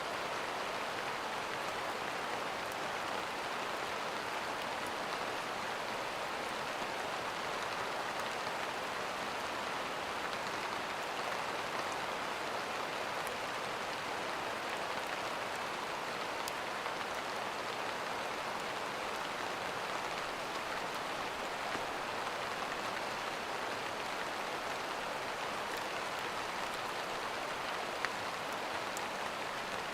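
Steady rain falling, an even continuous hiss with a few faint drop ticks and one sharper tick near the end.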